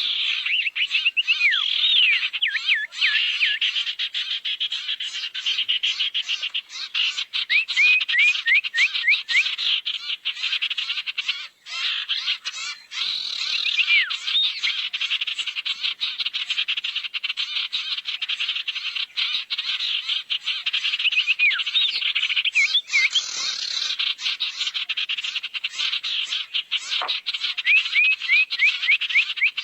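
Sirtu bird lure recording: a fast, continuous chattering trill, with runs of short high whistles sliding downward in pitch breaking in several times.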